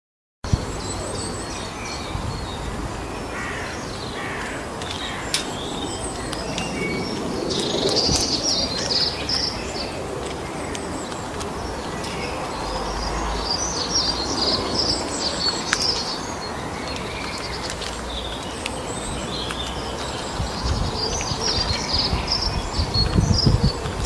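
Small birds chirping and singing in clusters of quick high notes a few seconds apart, over a steady outdoor background hiss, with a few sharp clicks and some louder low bumps near the end. The sound starts suddenly about half a second in.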